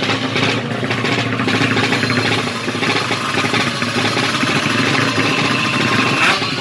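Yamaha MX King motorcycle engine, fuel-injected and bored out to 200cc, running through an HO2 racing exhaust. A steady high tone joins about halfway and cuts off near the end.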